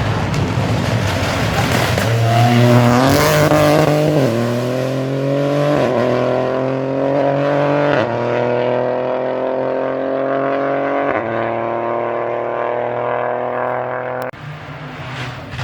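Rally car engine at full throttle, accelerating hard through the gears. The pitch climbs and dips briefly at each upshift, about four, six, eight and eleven seconds in, with the longest, slow climb in the higher gear.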